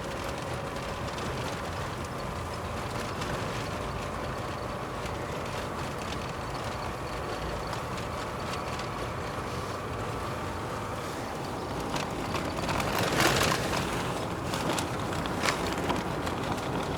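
Car driving along a road, heard from inside: steady engine and tyre noise. About thirteen seconds in there is a louder, rougher stretch, followed by a few sharp knocks.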